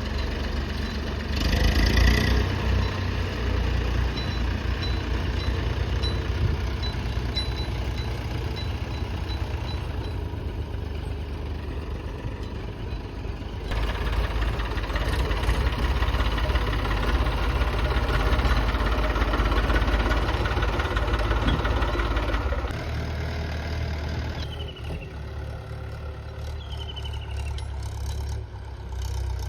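Diesel engines of a JCB 3DX backhoe loader and tractors running, the revs rising and easing as the machine works. Three short falling chirps come near the end.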